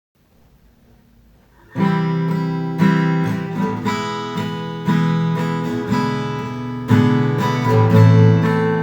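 Acoustic guitar strumming chords, coming in suddenly after a brief near-silent start, with a fresh strong strum about every one to two seconds.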